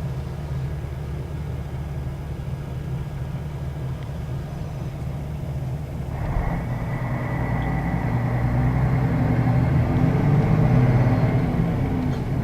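Scania K113 bus engine, an 11-litre straight-six diesel, heard from inside the bus. It runs steadily and low at first, then from about halfway through it pulls harder, its note rising with a thin high whine as the bus accelerates, and it eases off right at the end.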